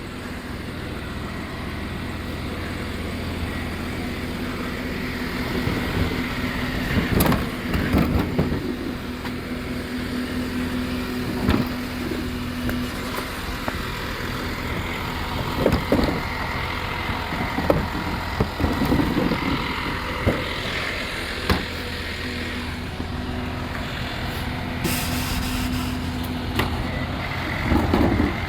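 Recycling truck running with a steady engine hum, broken by a series of clanks and knocks, and a short hiss near the end.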